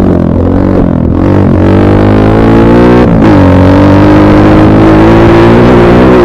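Dirt bike engine running loud under throttle. Its pitch rises and falls over the first second and a half, drops sharply about three seconds in, then holds and slowly climbs.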